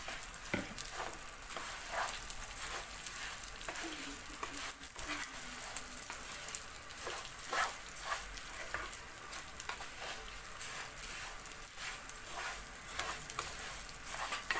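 Bulgur and vermicelli sizzling in hot olive oil in a pot while being stirred, the spoon scraping and clicking against the pot many times.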